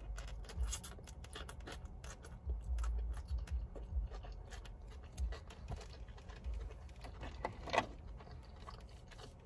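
Close-up eating sounds: a forkful of shrimp lo mein drawn into the mouth, then chewed with many small wet mouth clicks. Soft low thumps run underneath.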